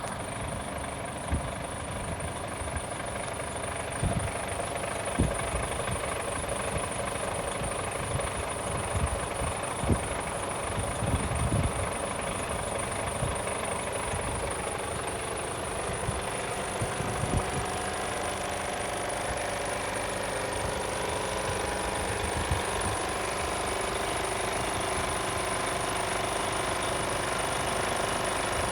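Mercedes Actros 1840 tractor unit's 400 bhp Euro 6 diesel engine idling steadily, with irregular low thumps scattered through the first half.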